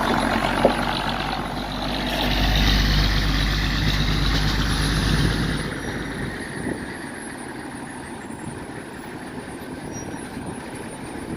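Heavy truck's diesel engine running, growing louder about two seconds in and dropping away sharply about six seconds in to a quieter steady hum.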